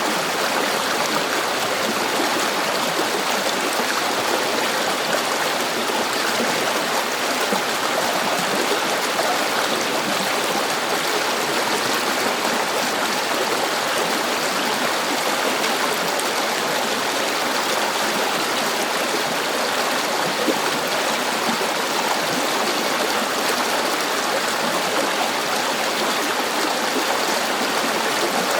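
River water flowing steadily over rocks, an even rushing sound.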